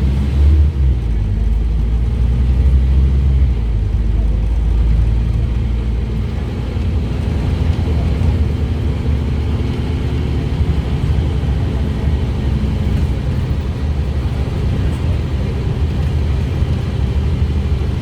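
Scania OmniCity double-decker bus with a Scania DC9 diesel engine, running steadily under way on a fast run, heard with its engine and road rumble. The low rumble eases slightly about six seconds in.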